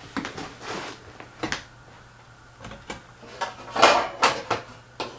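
Loose ceiling fan blades being handled: an irregular series of knocks, clatters and scraping rustles, the loudest cluster about four seconds in.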